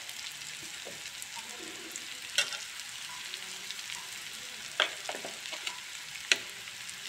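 Spiny gourd, onion and spices sizzling steadily in oil in a kadhai, with three sharp clicks about two and a half, five and six and a half seconds in.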